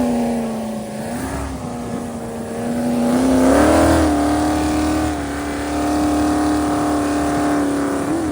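Dodge Hellcat's supercharged V8 revving during a burnout, its pitch dipping, climbing again about three to four seconds in, then held steady at high revs.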